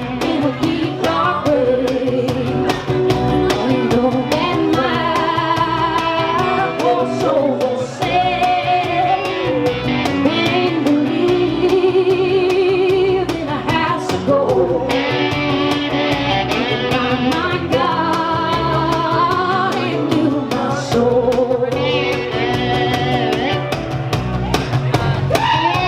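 A live band playing a song: a singer's melody over electric guitar and a steady drum beat.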